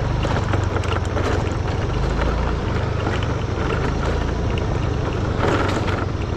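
A vehicle engine running steadily, with a continuous low rumble and noise from the ride.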